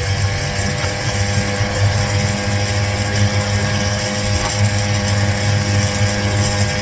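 49cc two-stroke gas scooter engine running steadily under way, its pitch holding even.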